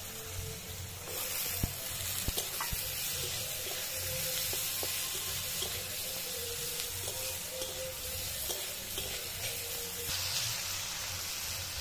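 Potato strips and green beans sizzling in hot oil in a metal wok, stirred with a metal spatula that scrapes and taps against the pan, with a few sharp taps in the first few seconds.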